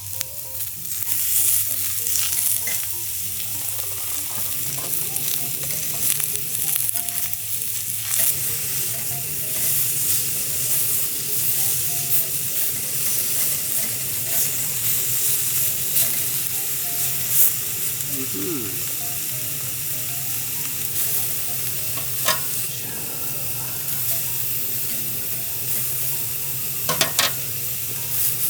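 Beef sizzling and frying on a small iron griddle plate, a steady hiss broken by a few sharp clicks, the loudest near the end.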